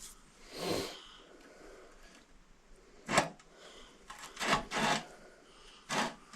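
A few short knocks and scrapes of metal parts being handled while the lift cylinder's pin and washer are fitted, the sharpest knock about three seconds in.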